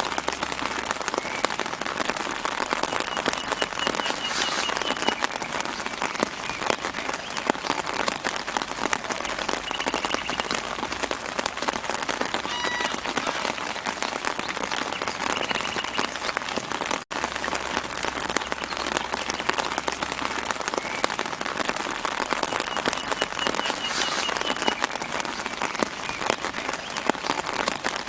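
Soft rain falling on tree leaves, a steady dense patter of drops. A bird gives short high trills in the background several times. There is a momentary gap in the sound about two-thirds of the way through.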